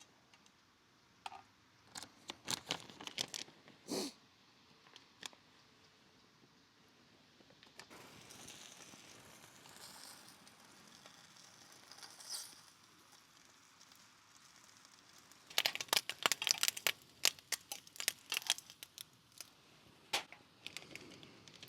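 Scattered small clicks and knocks with some faint crinkling, typical of camp gear being handled; about fifteen seconds in comes a quick run of rapid clicks lasting a few seconds.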